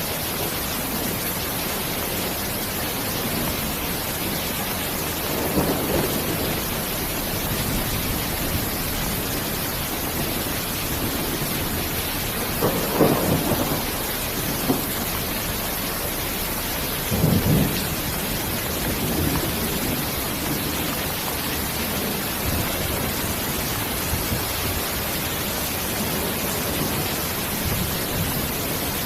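Steady heavy rain hiss with low thunder rumbles swelling up three times, about a fifth, two-fifths and three-fifths of the way through.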